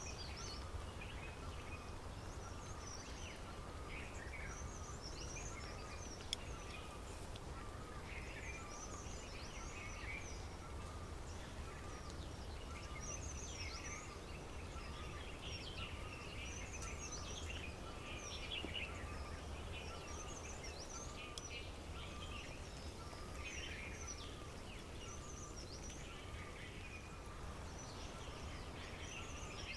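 Several birds chirping and singing together, many short overlapping calls and warbles, over a steady low rumble, with one sharp click about six seconds in.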